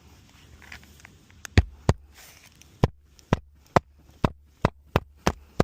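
Hammer driving roofing nails into a replacement asphalt shingle: about ten sharp strikes in a quick, slightly uneven run, starting about a second and a half in.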